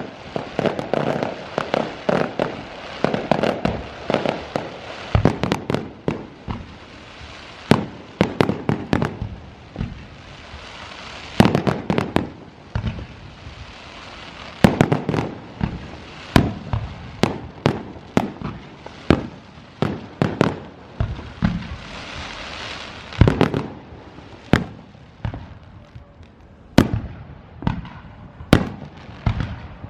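Aerial fireworks going off in rapid, irregular volleys: deep booms of shells bursting, mixed with sharp cracks and a crackling hiss between them.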